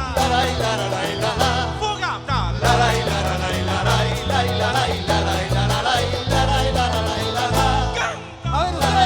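A live band playing Latin American popular music: an instrumental passage with a bass line changing notes on a steady beat and a melody line over it.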